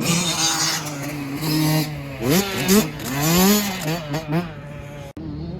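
Dirt bike engines revving, the pitch climbing and dropping several times after a steadier stretch.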